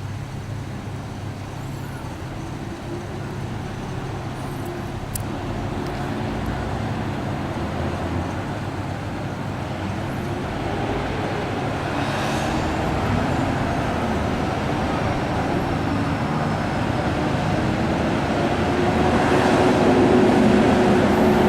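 Heavy gas-industry truck driving along the street, its engine drone growing steadily louder as it approaches.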